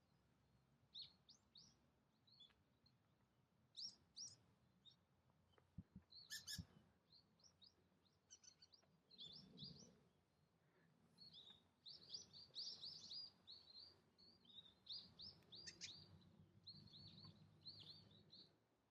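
Small birds chirping faintly: quick runs of short, high chirps that come thickest in the second half. A faint low rumble lies underneath at times.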